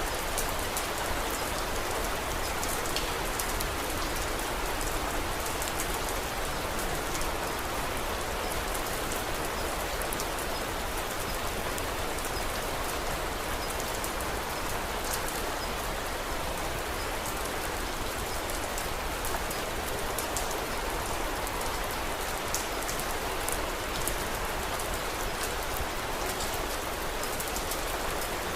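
Steady rain, an even hiss with many small sharp ticks of drops striking a surface.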